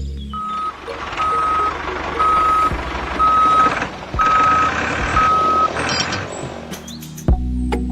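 Vehicle reversing alarm beeping: six steady, single-pitched beeps about a second apart over a noisy background.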